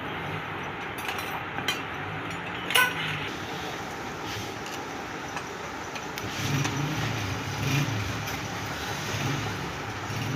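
Steady workshop background noise with a few sharp clicks of hand tools on metal in the first few seconds, the loudest just before three seconds in; from about six seconds in, a motor vehicle engine drones in the background.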